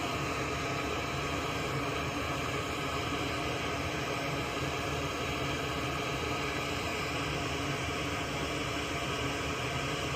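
Steady hiss with a low hum from a small electric fan or blower running continuously, unchanging throughout.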